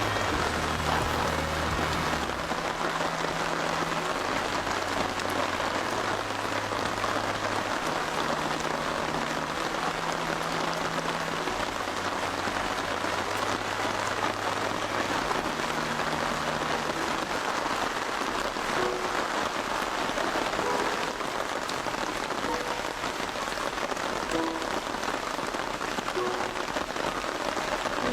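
Heavy rain falling steadily. Soft, low, held background music notes sit under it for about the first half, then fade out.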